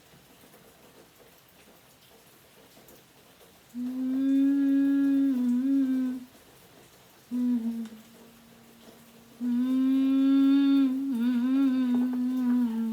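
A person's voice humming long, steady low notes on one pitch, three times with short breaks; the second note is brief, and each one wavers a little near its end.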